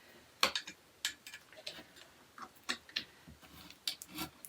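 Scattered sharp clicks and light knocks as shoe rack parts and an Allen key are handled and fitted together during assembly, the loudest click about half a second in.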